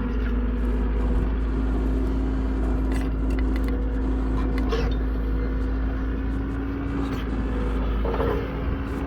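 Engine of the trench-digging machine running steadily with a constant hum, with a few faint knocks from the work.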